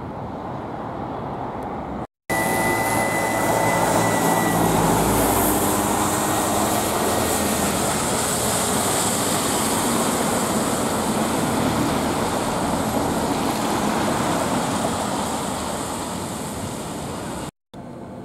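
An electric train or metro passing close by: a loud rushing noise with a high motor whine in its first seconds, between two abrupt cuts about two seconds in and near the end.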